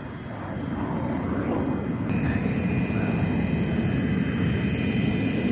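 Jet noise of a Sukhoi Su-27M (Su-35) fighter's twin AL-31F turbofans during a flying display, growing louder about a second in, with a steady high whine joining about two seconds in.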